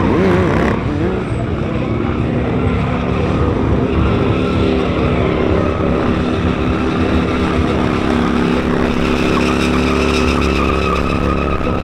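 A car doing a burnout: its engine held at steady high revs while the spinning tires squeal.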